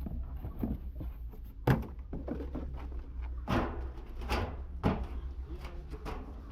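Several irregular knocks and thuds of workshop work, the sharpest a little under two seconds in and others around the middle, over a steady low hum.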